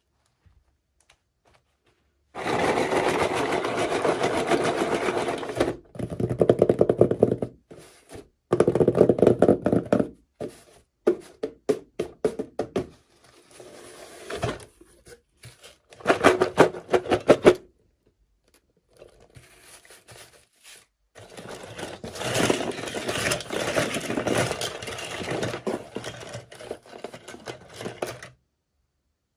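Hands unboxing toy packaging: stretches of scraping and rustling, with a run of quick clicks and taps in the middle.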